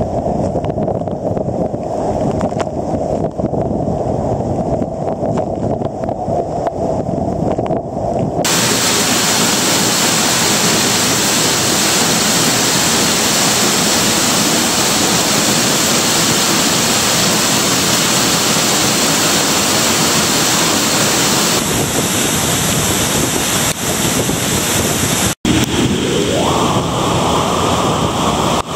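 Loud, steady rushing water. It is muffled for the first eight seconds, then suddenly becomes full and bright. There is a brief break about twenty-five seconds in.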